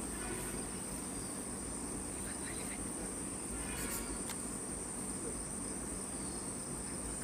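Insects in the forest keeping up a steady, high-pitched, unbroken buzz.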